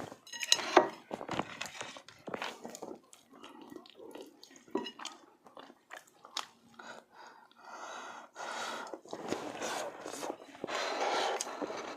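A person chewing and eating close to the microphone: irregular wet mouth smacks and crunches, with short sharp clicks.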